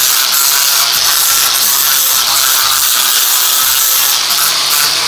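Prototype flush-cut grinder running and grinding a hardened patch down flush with a concrete floor: a loud, steady grinding noise that dips slightly near the end.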